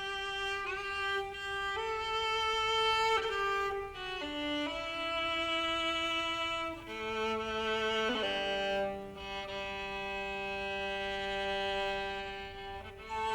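Background music on bowed strings led by a violin: a slow melody of long held notes, each changing after a second or two over a lower held line.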